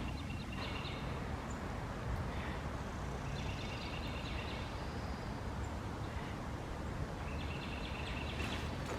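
Steady low outdoor rumble with faint rustling of footsteps through leaf litter, in three short patches of higher crackle.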